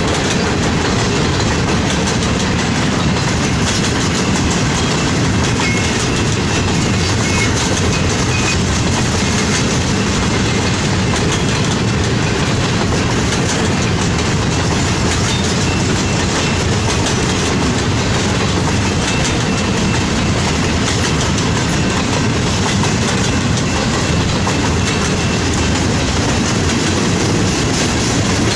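Freight train cars rolling past at speed, double-stack container cars and then open gondolas: a steady, loud rumble of steel wheels on the rails.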